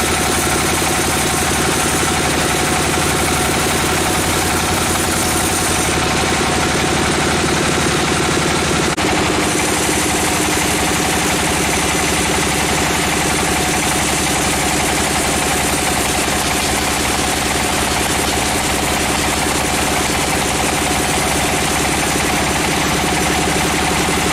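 Sawmill machinery running steadily: an engine-driven saw with a fast, even pulse. The sound shifts abruptly about nine seconds in.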